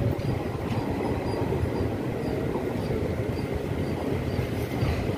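Passenger train coaches rolling slowly along a station platform, heard from an open coach doorway: a steady low rumble of wheels on track.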